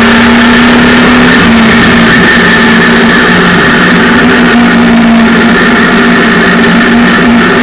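Daihatsu Charade three-cylinder 1000cc engine running loud at steady revs.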